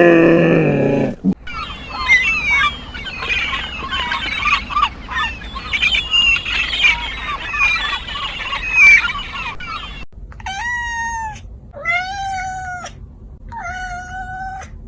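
A loud animal call falling in pitch cuts off about a second in, followed by many birds chirping in quick, busy bursts. Then a cat meows three times, each meow drawn out.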